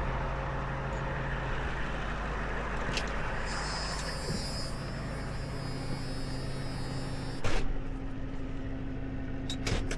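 Tow truck engine running steadily, with a brief hiss about three and a half seconds in and a sharp clunk about seven and a half seconds in, followed by a couple of clicks near the end.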